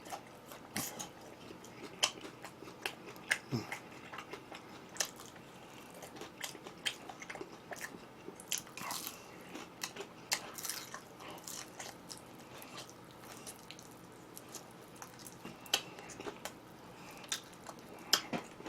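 Close-miked eating of Kyochon Honey Combo fried chicken: irregular crisp crunching bites and chewing, with small wet mouth clicks.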